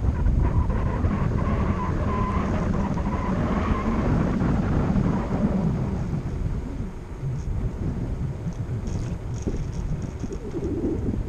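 Wind buffeting the microphone of a moving bicycle, a steady low rumble, with a faint thin tone in the first half.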